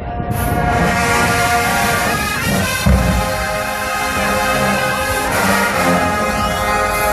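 Marching band playing loudly, led by brass horns holding sustained chords, with a heavy low drum hit about three seconds in.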